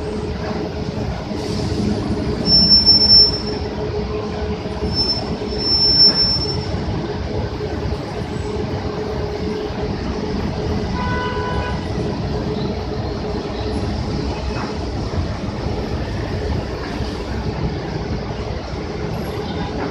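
Heavy city buses running with a steady engine rumble and hum, with high-pitched brake squeals about two to three seconds in and again around five to six seconds in, and a short pitched tone about eleven seconds in.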